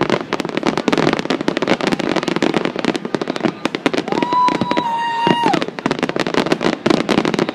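Fireworks display: a rapid, continuous barrage of aerial shell bangs and crackle. About halfway through, a steady whistle-like tone holds for about a second and a half over the bangs, then drops away.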